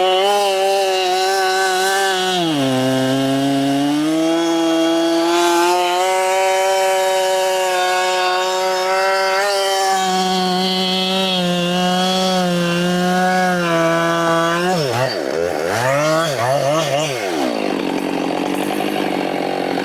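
Husqvarna 572 XP two-stroke chainsaw cutting through a dead oak trunk at high revs. Its pitch sags under load about two seconds in and then holds steady. Near the end the engine revs rapidly up and down several times before dropping away.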